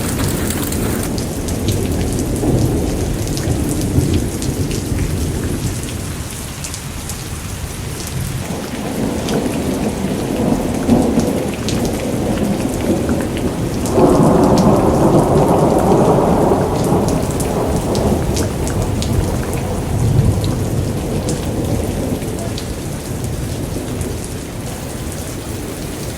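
Heavy storm rain pouring and pattering on surfaces, with many sharp drop impacts over a steady rush and a deep rumble underneath. About halfway through it suddenly gets louder and fuller for several seconds, then eases back.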